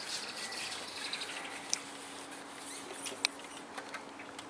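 Faint, quick high-pitched chirping of small birds in the first second and a half, then a few short, sharp clicks, the loudest about three seconds in.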